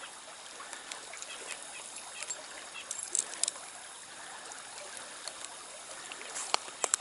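Trout stream water trickling steadily, with a few brief sharp clicks about three seconds in and again near the end.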